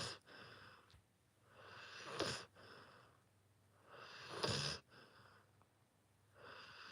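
Rottweiler puppy snoring in her sleep: three slow, noisy breaths about two and a half seconds apart, each followed by a fainter breath.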